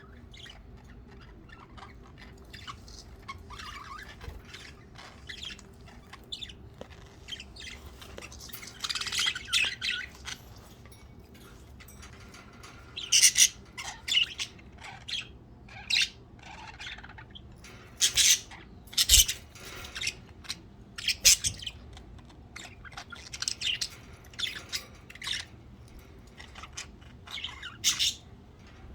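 Pet budgerigars chirping and squawking in short, scattered calls, sparse at first and busier and louder from about a third of the way in.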